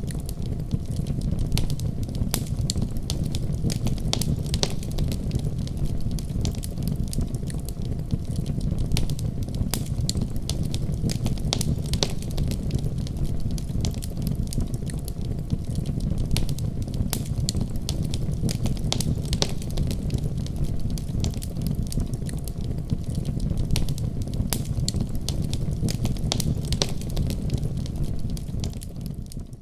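Wood fire burning in a fireplace: a steady low rush of flames with frequent sharp crackles and pops.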